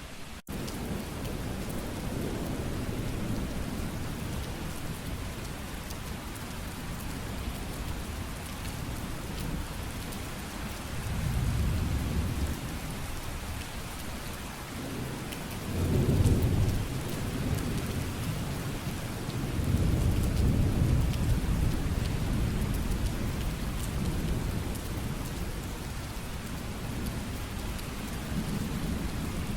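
Steady rain with several low rolls of thunder swelling and fading, the loudest about halfway through. A brief dropout in the sound comes just after the start.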